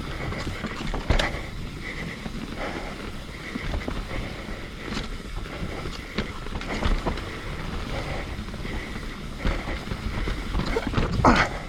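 Mountain bike riding down a wet dirt trail: steady tyre and riding noise with scattered knocks and rattles from the bike over rough ground, and wind on the microphone. A louder burst comes near the end.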